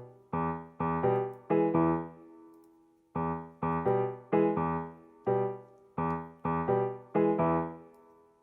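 Background music: gentle piano chords struck one after another and left to fade, with a short pause about two seconds in.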